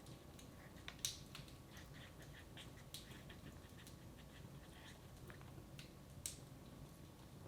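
Wood fire crackling in a fireplace: faint scattered crackles, with two sharper pops, one about a second in and one near the end.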